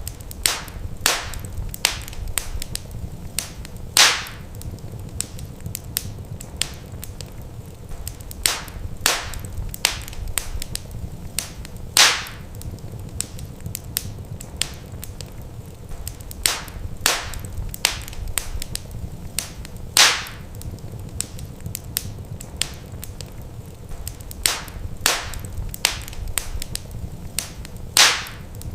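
Wood fire crackling, with irregular sharp snaps and pops over a low steady rumble. A louder pop comes about every eight seconds.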